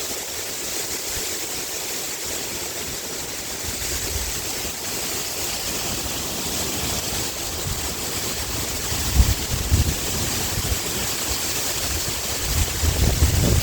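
Sea wind rustling through a bamboo grove: a steady hiss of leaves, with wind buffeting the microphone in low gusts about nine seconds in and again near the end.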